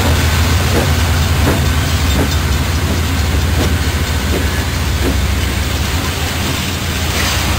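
Diesel-hauled freight train passing close by: a steady low rumble from the locomotives and rolling stock, with the wheels clicking over rail joints about every three-quarters of a second.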